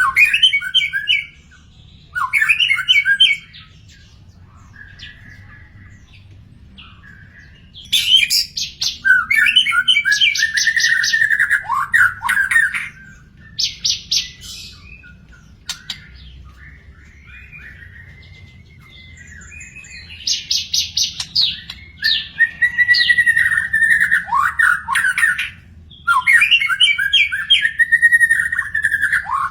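Murai (a Copsychus songbird) singing: loud phrases of varied whistled notes and fast trills, delivered in bursts of a few seconds with quieter pauses between them.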